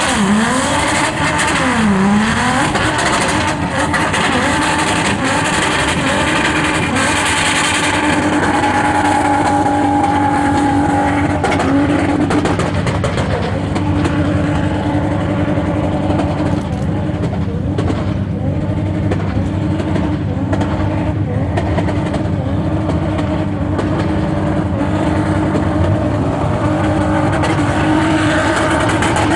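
Five-speed manual car's engine revving hard, its pitch dropping and climbing twice in the first few seconds, then held at steady high revs.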